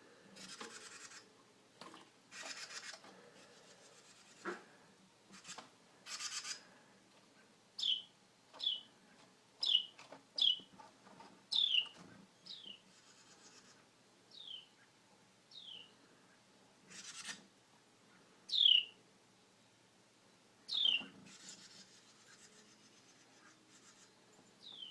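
A small bird giving about a dozen short, high chirps that slide downward, roughly a second apart. Several brief scraping, rustling bursts come before them in the first part.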